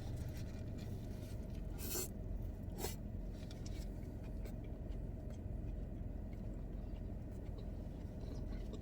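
Short rustles and scrapes of food and its paper packaging being handled while eating, loudest about two and three seconds in, over a steady low hum.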